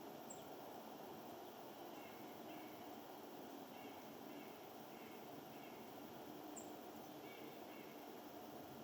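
Small birds chirping faintly over a steady outdoor background hiss, with two short high chirps about six seconds apart.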